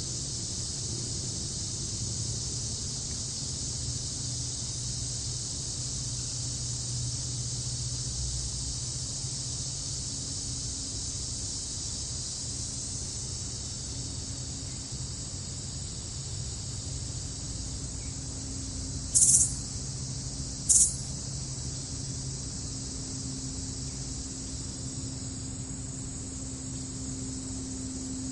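Grass-field ambience: a steady high chorus of crickets and other insects, with a faint low hum underneath. About two-thirds of the way through come two short, loud, high-pitched chirps, about a second and a half apart.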